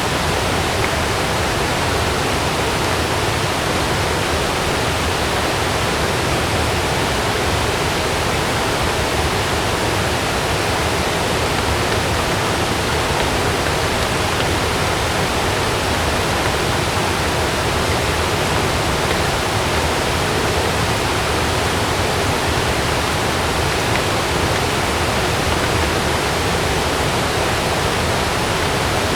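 Heavy rain falling steadily, an even unbroken hiss with no thunder or distinct drops standing out.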